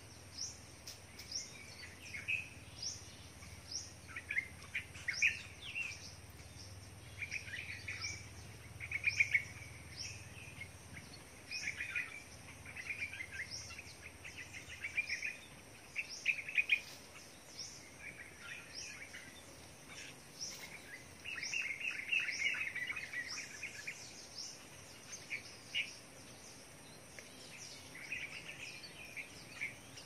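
Small wild birds chirping and calling in the forest: short, high, quick chirps repeat throughout, with a busier chattering run about two-thirds of the way through.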